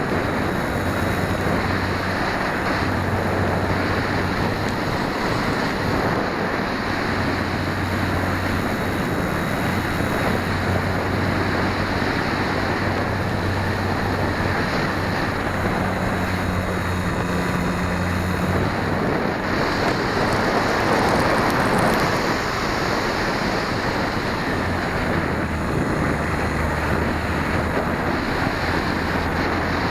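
Steady rush of wind buffeting the tiny microphone of an 808 keychain camera mounted on an RC plane's tail.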